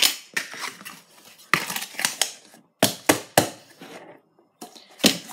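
A plastic spread tub and dishes being handled on a table: about five sharp knocks and clatters spread out over a few seconds.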